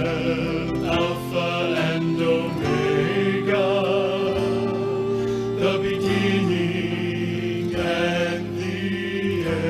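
Gospel music with vocal harmony: voices holding long notes with vibrato over sustained accompaniment.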